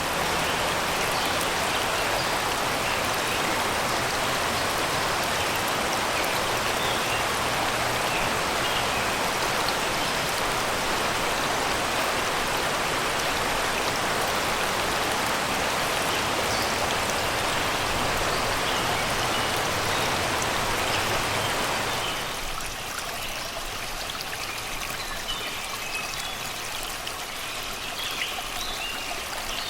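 Shallow river babbling over rocks and stones, a steady rush of water that drops a little in level about 22 seconds in. Birds sing faintly in the surrounding forest.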